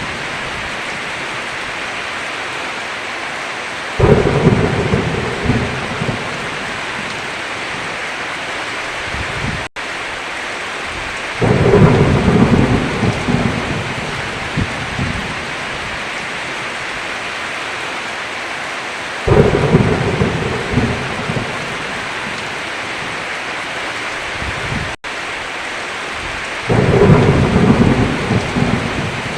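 Heavy, steady rain with four rolls of thunder, each starting suddenly and rumbling away over a few seconds. The rain also cuts out for a split second twice.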